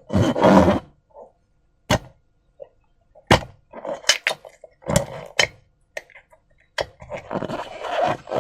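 Slime being squeezed and pulled by hand: a burst of squelching, then a pause broken by about six sharp wet pops and snaps, and the squelching starts again near the end.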